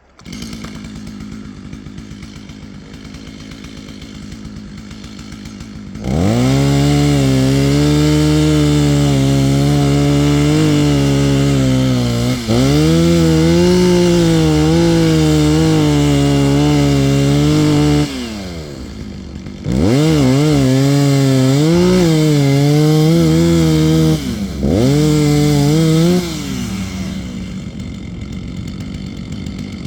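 Two-stroke chainsaw cutting wood from underneath. It idles, then runs at full throttle for about twelve seconds with a brief easing off midway, its pitch sagging and recovering as the chain bites. After a moment at idle come two shorter full-throttle bursts, and then it settles back to idle.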